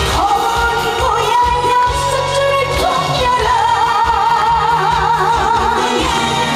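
A woman sings a trot song live with band accompaniment. About halfway through she holds a long note with a wide vibrato.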